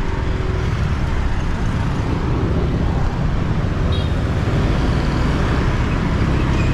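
Riding on a motorbike through city traffic: steady engine, road and wind noise with a heavy low rumble, and traffic around it.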